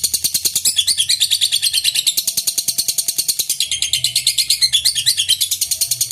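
Lovebird singing its long 'ngekek' chatter: an unbroken, rapid, high-pitched run of shrill notes, about a dozen a second.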